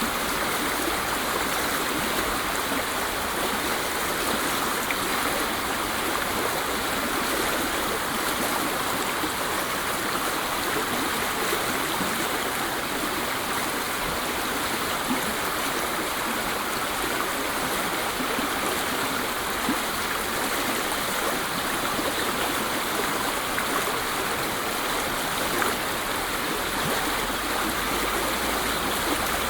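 Waterfall: water falling and rushing, a steady even roar with no breaks or changes.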